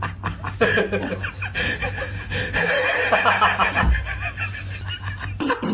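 People laughing in quick repeated bursts, chuckling and snickering.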